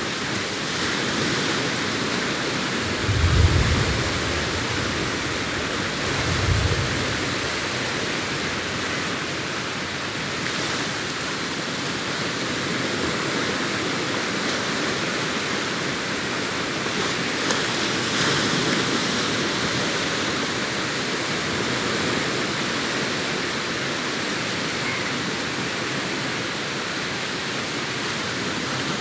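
Sea waves breaking and washing on a beach, a steady surf hiss. There are two brief low rumbles, about three and six seconds in.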